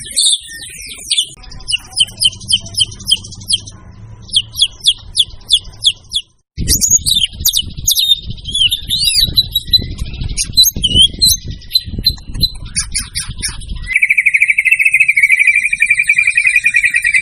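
White-rumped shama (murai batu) singing loudly in a spliced recording: runs of fast repeated chattering notes, then varied whistles and slurred notes, and, from about two-thirds of the way through, a steady buzzy rattling trill.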